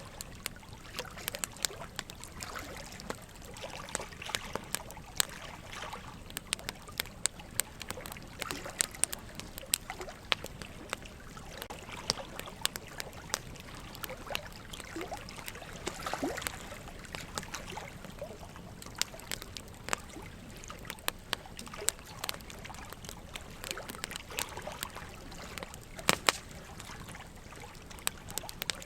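Wood logs burning in a fireplace, crackling with frequent irregular sharp pops, one louder pop near the end, over a steady trickle of running water.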